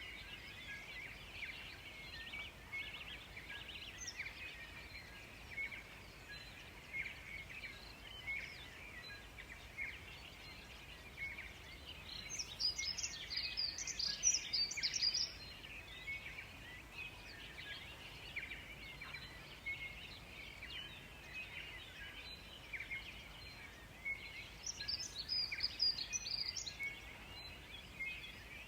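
Birds chirping and singing, many short calls throughout, with two louder, higher bursts of song: one about twelve seconds in and one near the end.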